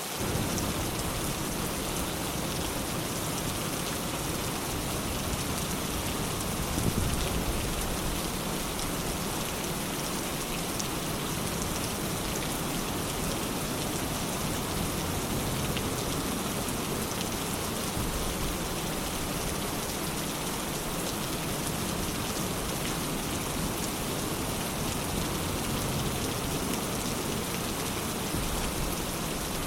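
Steady rain falling, an even hiss of drops, with one brief louder swell about seven seconds in.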